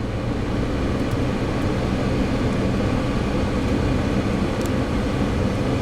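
1983 Buick Riviera's 5.0-litre V8 idling with a steady, even hum.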